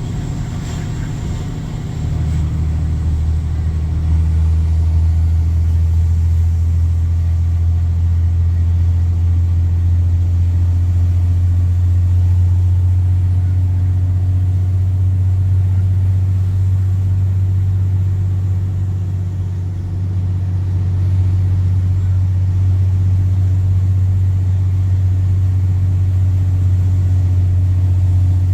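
Straight-piped Cummins C8.3 inline-six diesel in a school bus, pulling under load with a loud, deep, steady exhaust drone. It gets louder about two seconds in, eases briefly around twenty seconds in, then pulls again.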